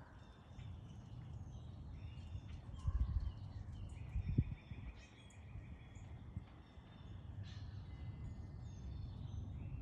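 Birds calling: scattered short chirps and calls, and a rapid rattling trill lasting about two seconds from about four seconds in. Under them runs a steady low rumble, with a couple of dull thumps.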